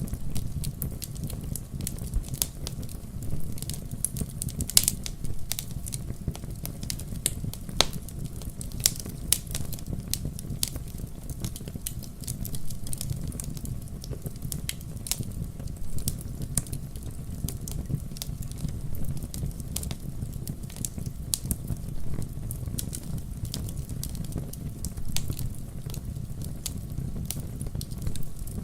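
Wood fire crackling and popping in a fireplace: many irregular sharp snaps over a steady low rumble of the flames.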